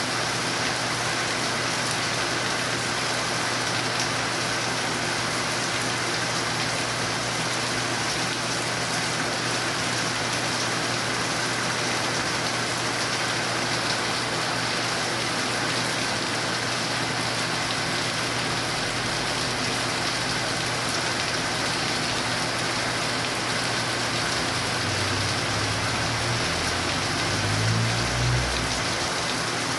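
Steady rain falling and pattering on a surface. Near the end there is a brief low rumble.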